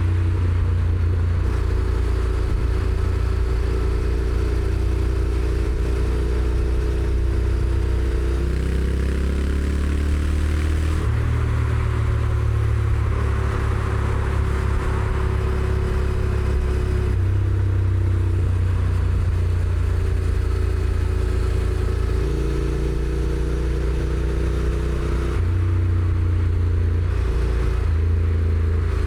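Honda NC750X's parallel-twin engine on the stock exhaust, heard from the rider's seat while riding. The low engine note climbs in pitch as the bike accelerates about a third of the way in, and it steps abruptly several times as the dual-clutch gearbox changes gear.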